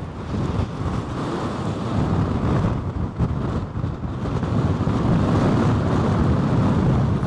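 Strong storm wind buffeting the microphone: a dense, low rushing noise that grows louder about two seconds in and stays strong.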